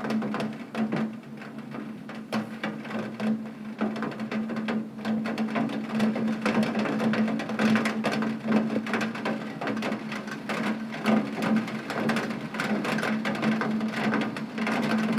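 Heavy rain beating on window glass: a dense, irregular patter of drops that grows a little busier after about six seconds, over a steady low hum.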